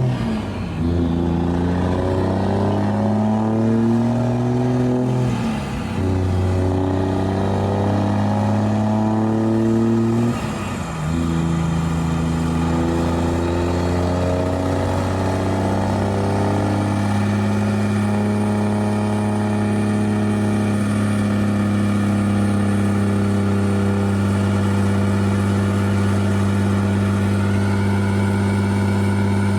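Turbodiesel pickup engine under full load on a chassis dyno, revs climbing and dropping back at each gear shift about 6 and 11 seconds in, then holding steady at high revs in top gear, with a faint high whine in the second half.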